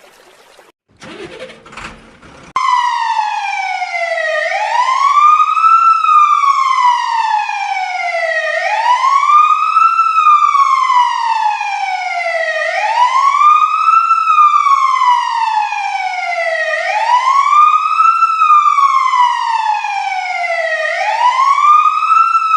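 A wailing siren sounding at a steady volume. Its pitch sweeps up quickly and down slowly, repeating about every four seconds and starting a couple of seconds in.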